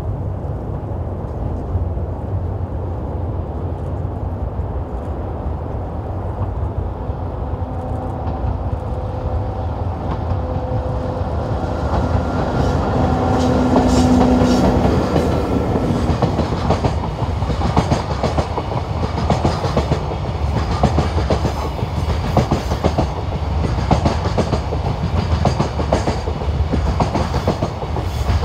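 JNR EF64 1000-series electric locomotive hauling a freight train of container flat wagons past at speed. A steady hum from the locomotive swells to its loudest about halfway through, then the wagons' wheels clatter rapidly over the rail joints.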